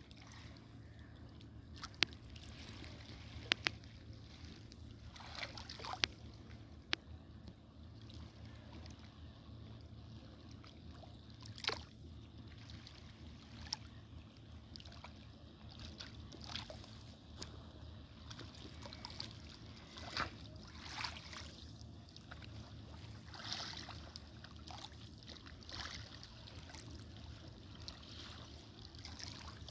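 Water splashing and trickling in irregular short bursts, with sharp clicks, over a steady low rumble.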